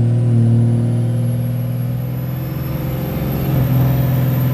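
Ford pickup truck accelerating hard from a standstill at about three-quarter throttle, heard from inside the cab: engine running loud under load, with a thin high whine slowly rising in pitch.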